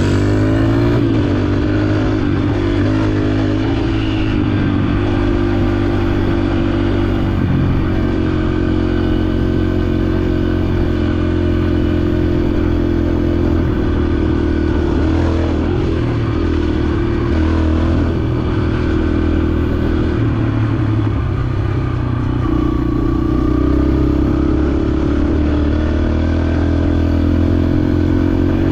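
Dirt bike engine running under way, its pitch rising and falling with the throttle: it climbs in the first few seconds, dips around the middle and picks up again near the end.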